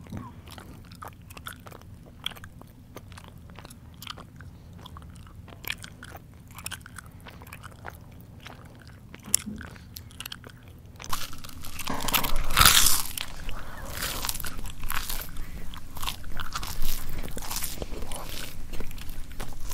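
A person chewing, heard close up: sparse soft mouth clicks and smacks, then from about eleven seconds in louder, denser crunching of crunchy food.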